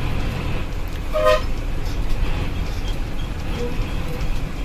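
A bus running with a steady low engine and road rumble, and a single short horn toot about a second in.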